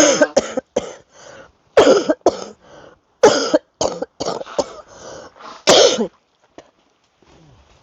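A person coughing repeatedly: about ten short coughs in quick runs over the first six seconds, then stopping.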